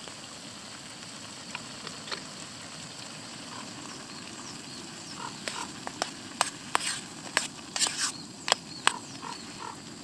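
Camp cooking: a steady sizzle of food frying, then from about halfway a run of sharp clinks and knocks of a utensil against the pan.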